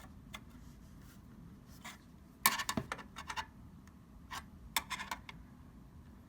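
Flathead screwdriver scraping and clicking against a PS4 Slim's bent fan shroud as it is pried up, in scattered light ticks and scratches with a quick cluster about two and a half seconds in. The shroud is being bent back because it was rubbing on the fan.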